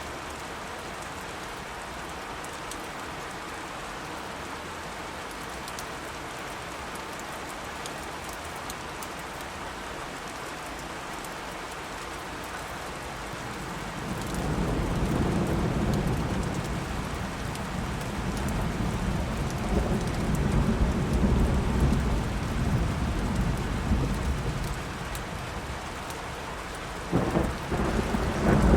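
Steady rain falling, with a long low roll of thunder that builds about halfway through and rumbles on for several seconds, then a sharper thunderclap near the end.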